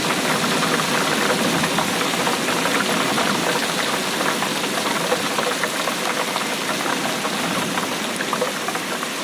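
Steady rainfall, a dense, even patter of many drops.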